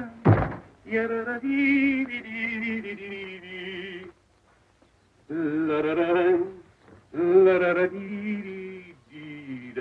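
A man singing a slow tune unaccompanied, with a wavering vibrato, in phrases a couple of seconds long broken by short pauses. A single sharp thud sounds just before the singing begins.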